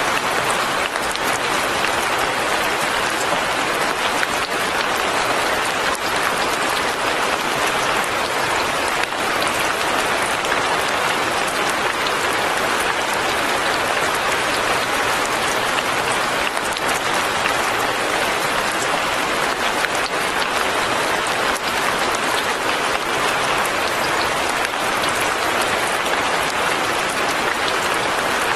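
Steady light rain falling, an even hiss of many fine drops with no pauses or changes.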